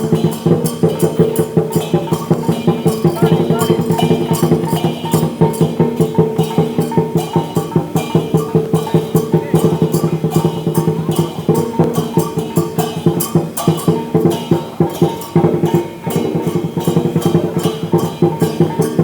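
Dragon dance percussion band of Chinese drum, cymbals and gong playing a fast, steady beat, with cymbals and gong ringing under the strikes.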